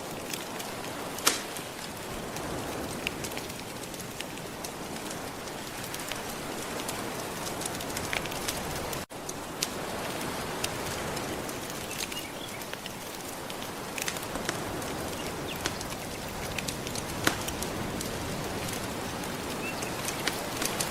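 Wood fire crackling with scattered sharp pops over a steady wash of ocean waves, with a split-second dropout about nine seconds in.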